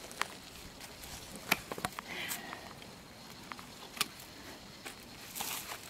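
Handwork in brush: a few sharp snaps and clicks of twigs being broken or cut back, with rustling of leaves and branches, loudest near the end.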